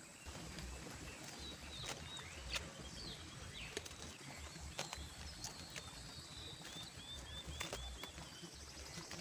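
Stream-side forest ambience with small animal calls: a steady high-pitched whine, scattered short chirps with a quick run of five together late on, occasional clicks, and a low rumble underneath.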